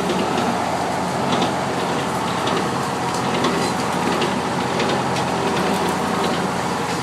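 Farm tractor engine running steadily under load while clearing brush, with a few scattered sharp clicks over it.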